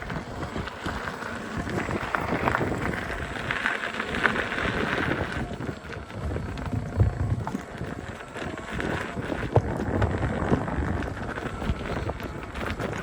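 Electric unicycle being ridden: wind on the microphone and rolling noise, with many scattered knocks and clicks from the tyre over rough ground and a faint steady whine.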